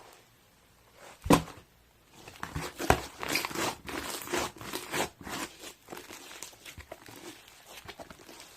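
Slime being squeezed and poked by hand, making irregular crackling and popping clicks, with a sharp pop about a second in and a dense run of crackles in the middle.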